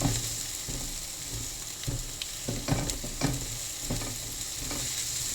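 Food sizzling as it fries in a pan, with a cooking utensil stirring it and knocking and scraping against the pan every half second to a second.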